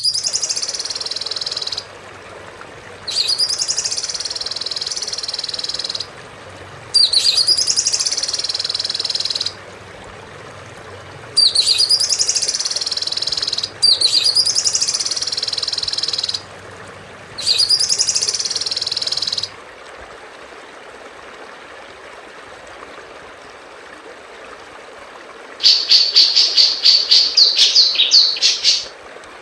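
Recorded songbird calls used as a tutor track for training cage birds. A high call opens with a sharp note and runs into a long, held high trill. It comes six times with short gaps between. After a pause, a fast series of high chirps starts near the end, about four a second.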